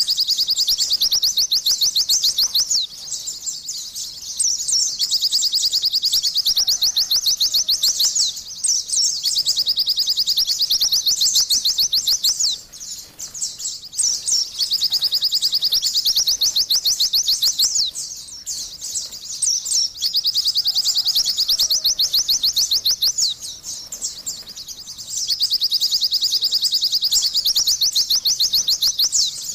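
White-eye (pleci) singing: long runs of rapid, high chattering notes, each run several seconds long and broken by short pauses.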